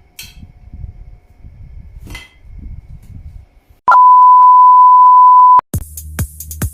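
Faint low rumbling with two clicks, then a loud steady electronic beep at one pitch for under two seconds that cuts off sharply, followed near the end by electronic dance music with a regular thudding beat.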